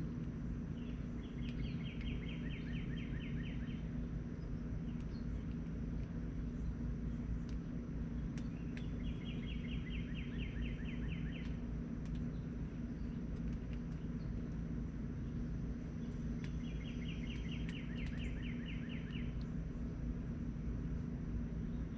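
A songbird singing the same rapid trill three times, each about two and a half seconds long and several seconds apart, over a steady low background rumble.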